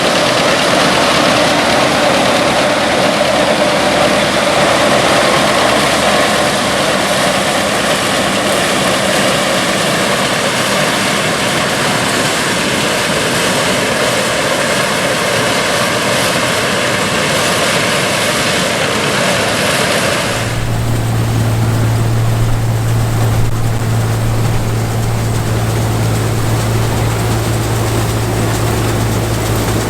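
Classic combine harvester running steadily in the field, its engine and machinery making a dense mechanical noise with a steady tone through it. About two-thirds of the way through, the sound cuts abruptly to another machine running with a steady low hum.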